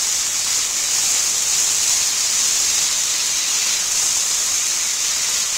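Onions, green peas and sweet corn sizzling in hot oil in a kadhai as they are sautéed and stirred: a steady frying hiss.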